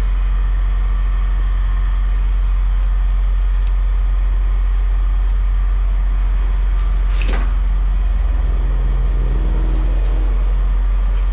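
Steady low machine hum at a constant level, with one sharp knock about seven seconds in.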